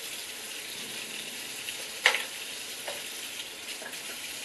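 Tap water running steadily into a sink, with a sharp click about two seconds in and a softer one a second later.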